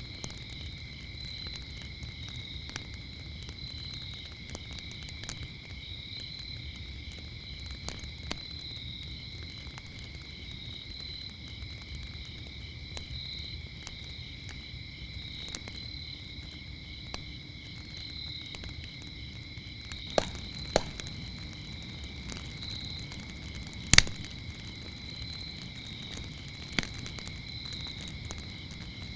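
Wood fire crackling with scattered sharp pops, a cluster around 20 seconds in and the loudest about 24 seconds in, over a steady high chorus of crickets chirping at two pitches, one of them pulsing. A few short high chirps come near the start.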